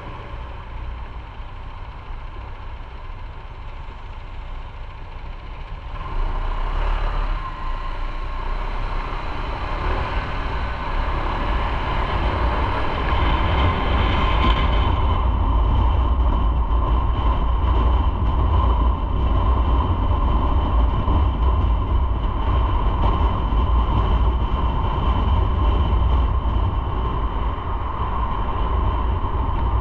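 Motorcycle riding on the road: engine and road and wind noise with a heavy low rumble, getting louder about six seconds in and then holding steady and loud.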